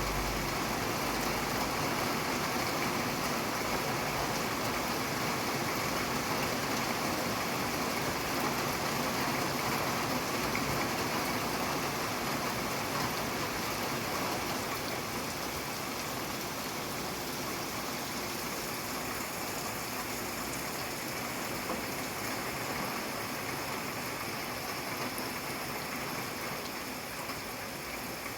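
Steady rain falling, a dense even hiss that eases slightly in the second half.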